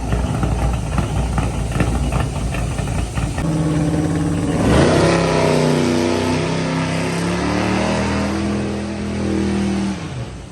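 Car engine with headers running at a rough idle, then revved up hard about four to five seconds in and held at high revs for several seconds before dropping back near the end.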